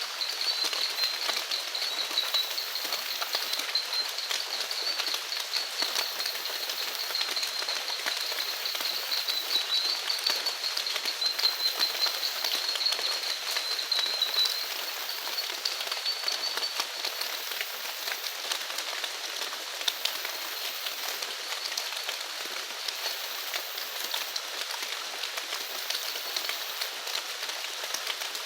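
Steady rain falling, with many small drops pattering. A continuous high-pitched trill from a calling animal runs along with it and fades out a little over halfway.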